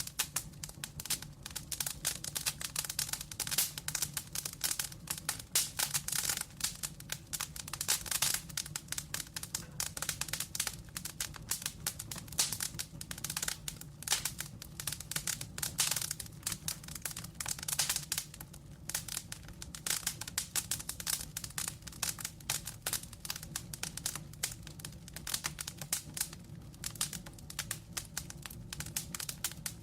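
Wood fire burning in a fireplace: logs crackling with dense, irregular pops and snaps over a steady low undertone.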